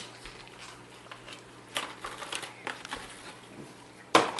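Plastic toy packaging being opened and handled: scattered crinkles and clicks, then a single sharp plastic snap near the end.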